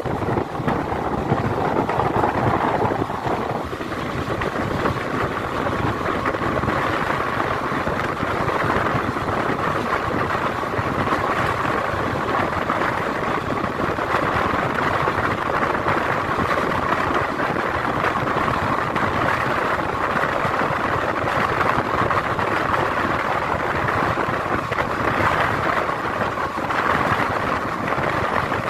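Steady running noise of a Simhadri Express passenger coach heard from an open window at speed: wheels rolling on the rails with rushing air, even throughout.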